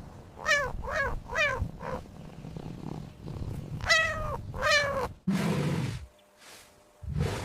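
Domestic cat meowing: three short meows in quick succession, then two longer meows that hold and then drop in pitch, followed by a brief low rough sound.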